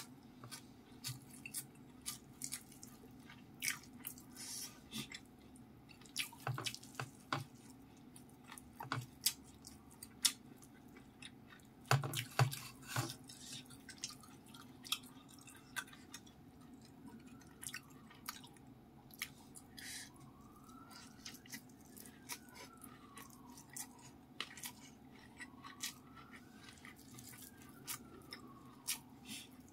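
Close-miked eating by hand: wet chewing and mouth smacks with irregular small clicks as a mouthful of rice with fried anchovies, petai and omelette is eaten, and fingers squish rice in the bowl. A low steady hum runs underneath, and a faint tone rises and falls slowly in the background in the second half.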